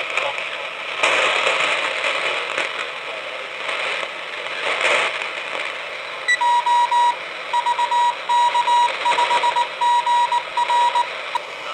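Shortwave receiver audio: static hiss and crackle, then about six seconds in a single steady beep that keys on and off in short and long pulses, a Morse code (CW) signal.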